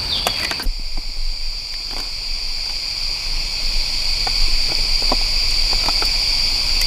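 A steady, high-pitched chorus of rainforest insects, with scattered light knocks and clicks over it.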